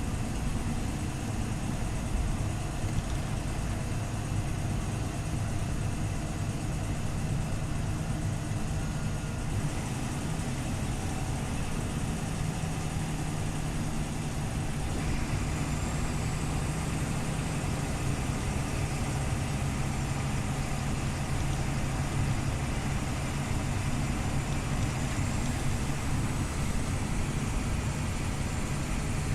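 Scania OmniLink CL94UB city bus's engine running steadily: a low, even drone with a faint high whine in the second half.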